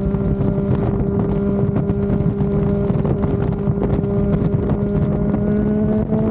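Triumph Daytona 660's inline three-cylinder engine running at steady revs while riding, its pitch edging slightly higher near the end, with wind rushing over the microphone.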